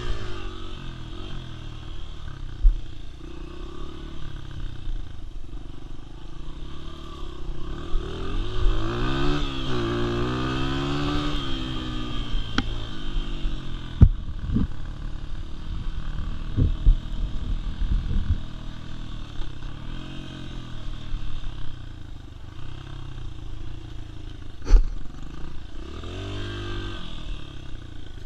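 Dirt bike engine revving up and falling back several times, with sharp knocks and clatter in between; the loudest sound is a single hard thump a few seconds before the end.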